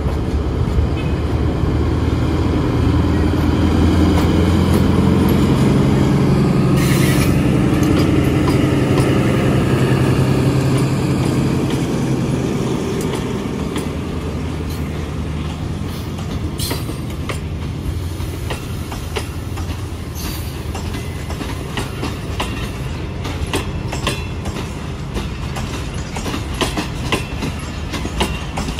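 A diesel-electric locomotive passing close by, its engine hum loudest in the first third and then fading. The train's wheels clatter over rail joints and points with sharp clicks through the second half, and there is a short hiss about seven seconds in.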